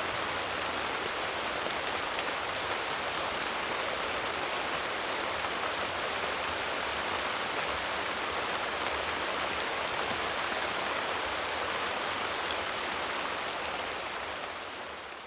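Steady rainfall, a dense even hiss, fading out near the end.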